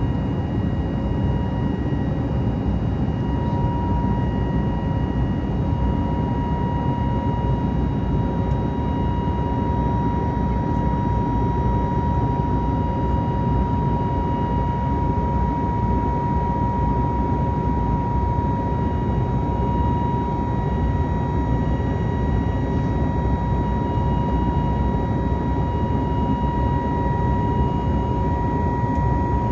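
Airbus A320 jet engines and airflow heard from inside the cabin in flight shortly after takeoff: a steady roar with a thin, steady high whine running through it.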